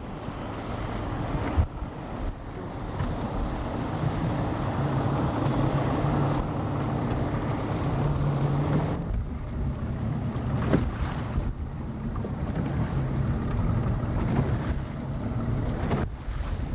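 Motorboat engine running at low speed, with wind buffeting the microphone; the engine's hum strengthens about four seconds in and eases around nine seconds.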